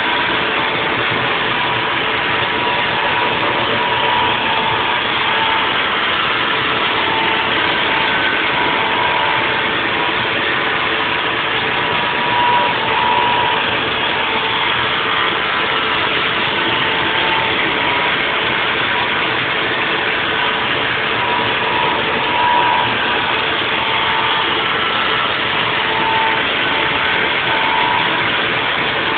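Haas VF4 CNC vertical mill machining a 3D surface: steady cutting and machine noise, with a whine that swells and fades every few seconds.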